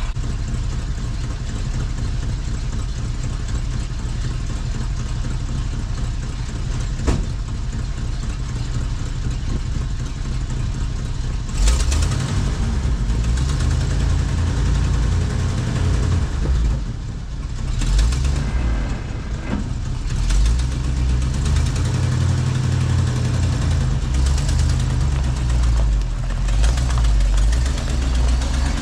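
Ford F700 truck engine running, first at a steady idle; about twelve seconds in there is a clunk, and then the engine note grows stronger and rises and falls as the truck is driven, with a few more knocks.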